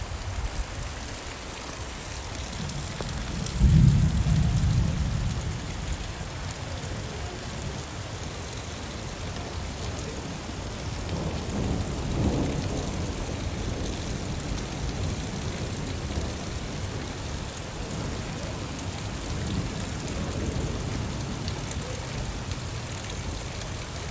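Steady rain falling, with a sudden low rumble of thunder about four seconds in that fades over a couple of seconds, and a fainter rumble around twelve seconds.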